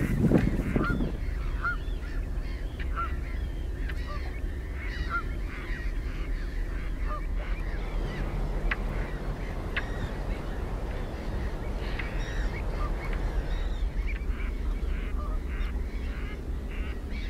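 Birds calling again and again in short rising-and-falling cries over a steady low rumble, with heavier low noise in the first second.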